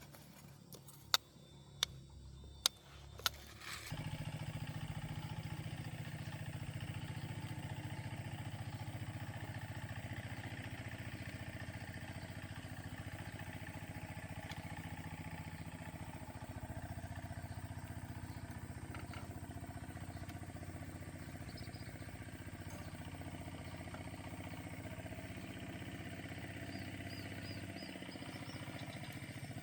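Several sharp clicks, then an engine starts about four seconds in and keeps running steadily.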